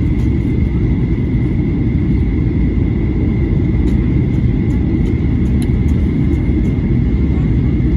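Steady low rumble of jet airliner cabin noise, the engines and airflow heard from inside the passenger cabin, with a thin steady high tone over it.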